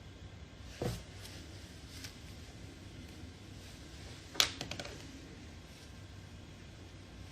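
Quiet room tone with a soft thump about a second in and a sharp click a few seconds later, followed by a few smaller clicks.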